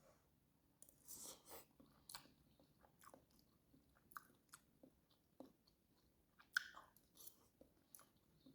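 Faint close-up chewing of soft food: irregular small wet mouth clicks and smacks, a little louder about a second in and again past six seconds.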